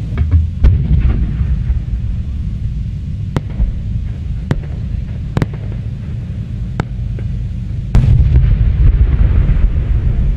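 Aerial fireworks shells bursting: a string of sharp bangs, roughly one a second, over a heavy low rumble that swells near the end.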